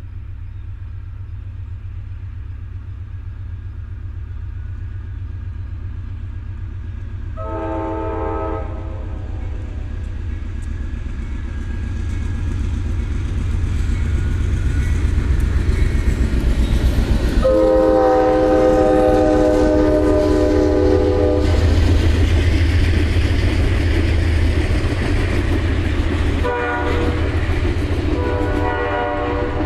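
Amtrak passenger train with a steady low rumble that grows louder partway through, sounding its horn, a chord of several notes: a short blast about 7 seconds in, a long blast of about four seconds later on, and another blast near the end.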